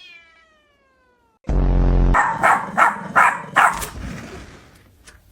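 A domestic cat's long meow, falling in pitch, then about a second and a half in a loud low yowl followed by four short, sharp cries in quick succession.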